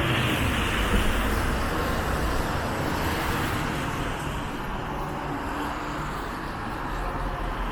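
Street traffic noise: road vehicles passing, their engine and tyre sound louder near the start and easing off towards the end.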